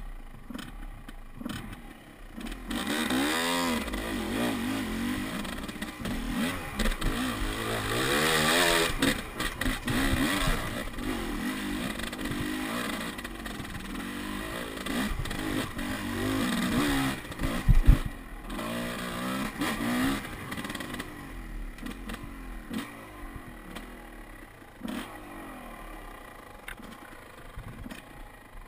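Enduro dirt bike engine revving up and down repeatedly under load, its pitch rising and falling, loudest about a third of the way in and quieter over the last few seconds. A sharp knock sounds once, past the middle.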